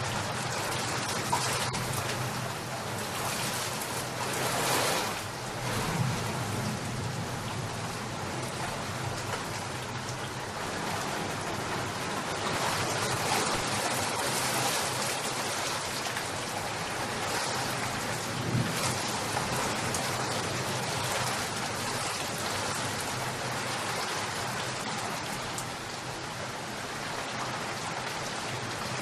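Steady rain falling and pattering on surfaces, with a few short swells in loudness.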